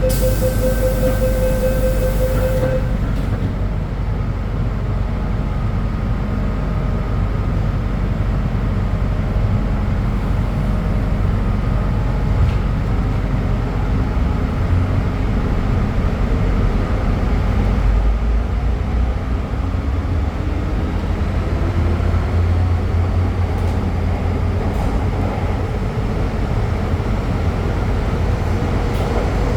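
MTR M-train electric multiple unit running at speed, heard from inside the car: a steady, loud wheel-and-track rumble. A short steady tone sounds in the first couple of seconds, and a faint whine rises from about two-thirds through.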